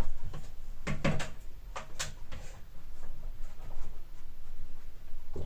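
A few clicks and knocks of small objects being handled and set down on a hard surface, the sharpest about one and two seconds in.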